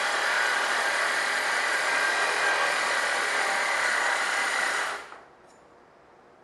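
A power tool running steadily, stopping abruptly about five seconds in.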